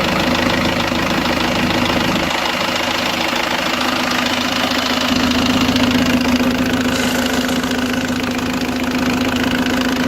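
Mercedes-Benz OM364LA four-cylinder turbodiesel engine running steadily at idle, with a low hum that grows stronger about halfway through.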